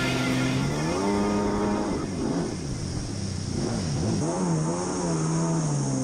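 Stand-up jet ski's two-stroke engine revving up and down as the throttle is worked. The pitch rises about a second in, swings up and down several times through the middle, then settles to a steadier note near the end.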